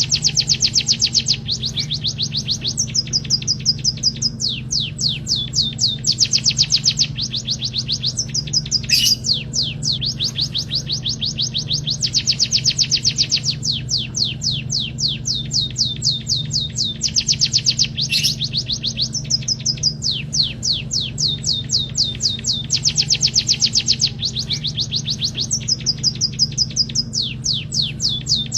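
White-headed munia (emprit kaji) singing nonstop: fast trills of high chirping notes, about ten a second, in runs of a second or two that break and shift pitch, over a steady low hum. A sharp click comes about nine seconds in and again about eighteen seconds in.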